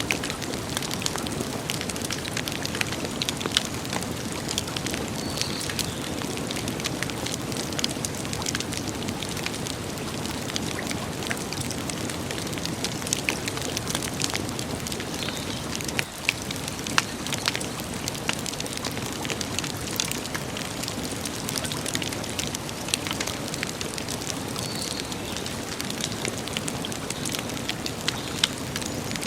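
Campfire burning: a steady hiss with many sharp crackles and pops scattered at random.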